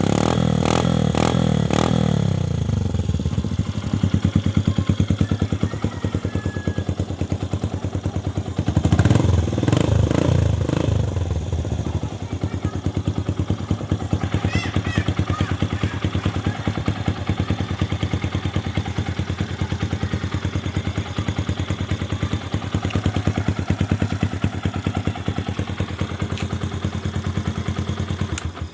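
Yamaha YTX 125 single-cylinder four-stroke motorcycle engine running through an aftermarket bullet pipe muffler: throttle blipped at the start and again about nine seconds in, settling back to a steady idle between and after.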